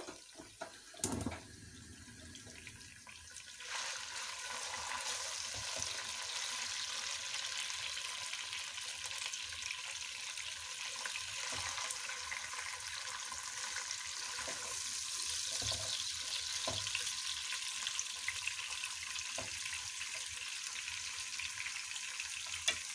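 Sliced onions, dried red chillies and whole spices sizzling in hot ghee in a pot, the sizzle growing louder about four seconds in and then holding steady. A short knock about a second in.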